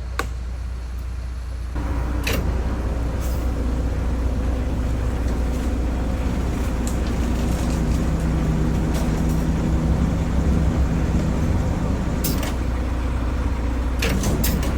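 A heavy vehicle's engine running steadily, getting louder about two seconds in, with a few sharp knocks, most of them near the end.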